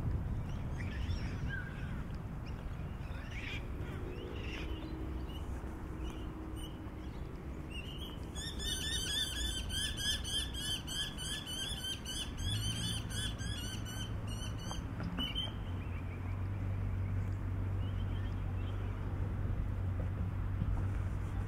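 A bird calling in a fast, even series of repeated chirps for about seven seconds, after a few scattered chirps, over a steady low background rumble. A steady low hum starts a little past the middle and runs on.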